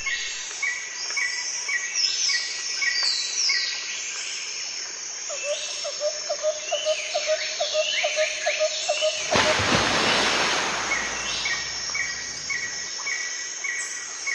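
Several birds calling and singing, with repeated short chirps and sweeping notes over a steady high insect-like drone. A brief rush of noise cuts across them about two-thirds of the way through.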